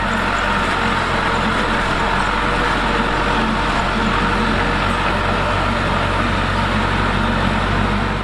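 Diesel engine of heavy construction machinery running steadily under load.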